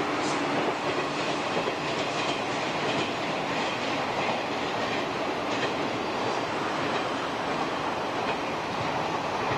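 Electric multiple-unit express train running past close by: a steady rumble of wheels on the rails, with occasional clacks over the rail joints.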